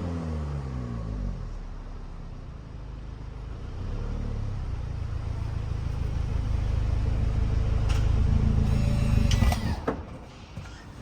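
2023 Mini Cooper Countryman JCW's turbocharged four-cylinder exhaust note falling back from a rev, then a steady low rumble that builds for several seconds and drops off suddenly near the end, with a couple of sharp clicks.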